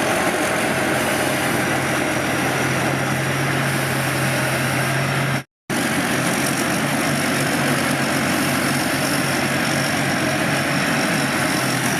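Large rice combine harvester's Hino diesel engine running steadily, with a low hum and a rattly mechanical din. The sound cuts out completely for a fraction of a second about halfway through, then resumes with a slightly different low hum.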